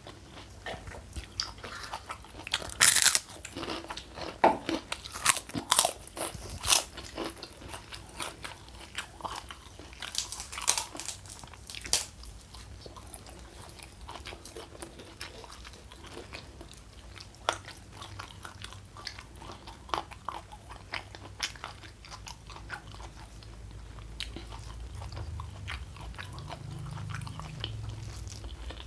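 Close-miked eating: crisp, crunching bites and chewing of crunchy food, the loudest crunches packed into the first dozen seconds, then sparser, softer chewing.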